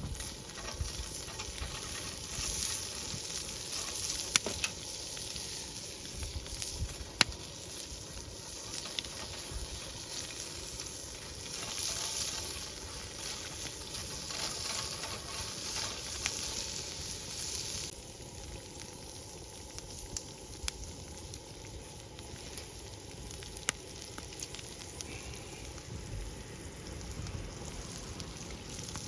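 Food frying in a pan over a wood fire: a steady sizzle with scattered sharp pops. The sizzle quietens about eighteen seconds in.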